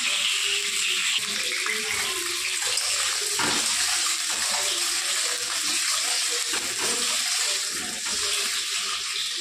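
Peeled boiled eggs sizzling in hot oil in a kadhai, a steady hiss.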